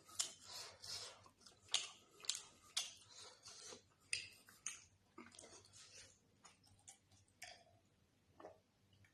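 Close-miked sounds of a person eating: irregular wet chewing and mouth clicks, many in quick succession at first, thinning out in the second half.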